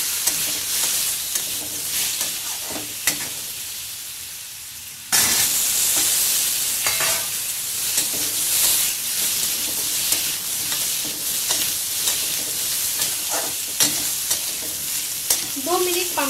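Pumpkin chunks sizzling in hot mustard oil in a wok, stirred and scraped around with a silicone spatula. The sizzle gets suddenly louder about five seconds in.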